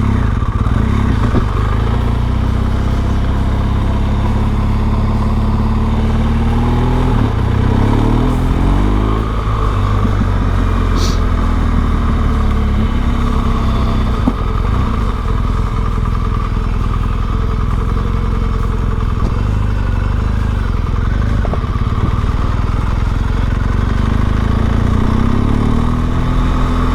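Motorcycle engine running steadily while being ridden, its pitch shifting up and down about seven to nine seconds in and again near the end.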